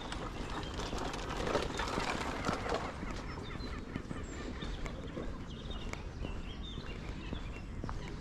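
Footsteps on a park path with birds chirping around, and a louder patch of calls about one to three seconds in.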